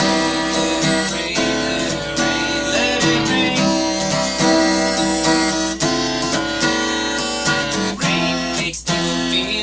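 Acoustic guitar strumming chords in a steady rhythm, with a brief break in the sound shortly before the end.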